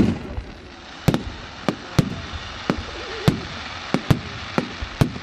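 Fireworks going off in quick succession: about ten sharp bangs, one every half second or so.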